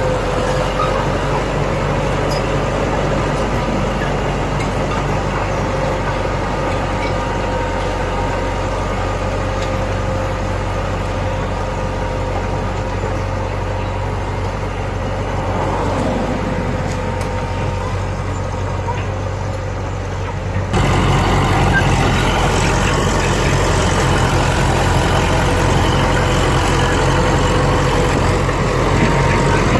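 Heavy diesel engine of a bulldozer running steadily with a faint steady whine above it; about two-thirds of the way in the sound jumps suddenly louder.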